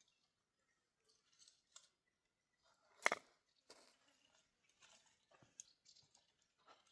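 Dry wheat stalks being cut and handled: a series of faint, crisp crunching rustles, with one much louder crunch about three seconds in.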